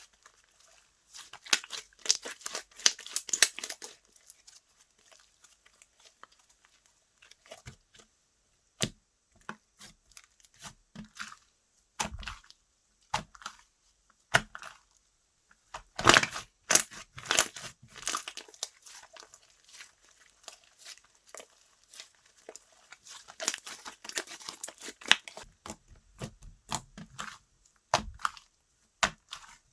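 Slime being worked by hand, stretched and pressed, giving clusters of crackling, popping clicks with quieter stretches of single pops in between.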